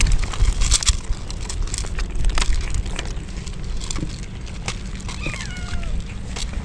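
A kitten meowing once, a cry falling in pitch about five seconds in, while raindrops patter in many scattered ticks and a low rumble runs underneath.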